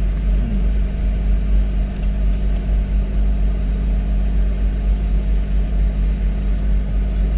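Car engine idling, heard from inside the stationary car's cabin: a steady low rumble.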